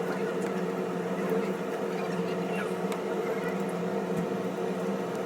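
A steady mechanical hum with a few faint ticks.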